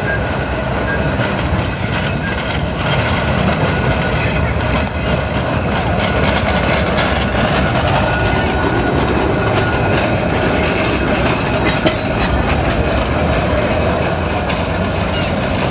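Heritage electric tram running on its rails: a steady rumble with a faint steady whine and scattered clicks.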